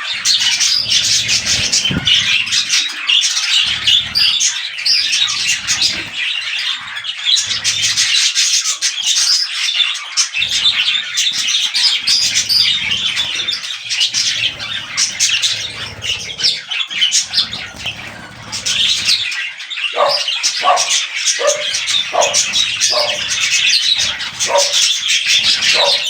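Budgerigars chattering and warbling, a dense stream of fast high chirps. Near the end comes a run of about seven short, lower-pitched calls.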